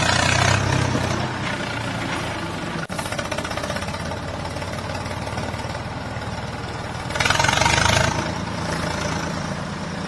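Engine running sound, idling steadily, with louder revving stretches at the start and again about seven seconds in.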